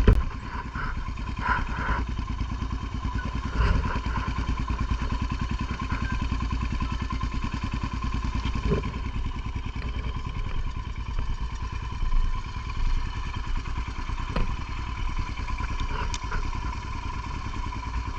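Motorcycle engine running steadily at low revs, its firing pulses even throughout, with a few short knocks.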